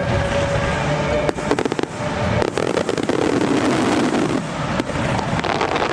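Aerial fireworks going off in quick succession, a dense run of sharp crackles and pops over a continuous rumbling background.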